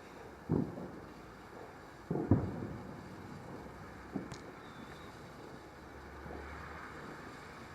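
Fireworks exploding at a distance: three bangs, the second and loudest a little past two seconds, each followed by a short rumbling echo.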